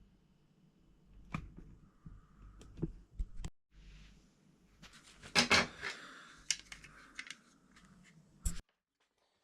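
Scattered light knocks and clicks of objects being handled, with a louder clatter of several knocks about five and a half seconds in, then the sound cuts off abruptly.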